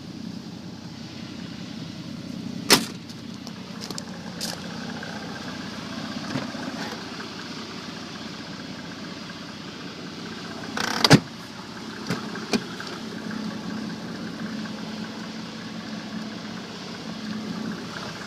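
Mercedes 300 SDL's 3.0-litre turbo-diesel inline-six idling with a steady low hum. Two sharp knocks cut across it, one about three seconds in and a louder, longer one about eleven seconds in, with a few lighter clicks between.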